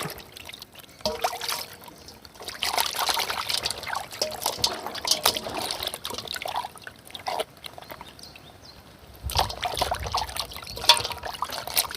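Water trickling and splashing as dressed quail are washed by hand, with irregular small splashes and a dull low bump about nine seconds in.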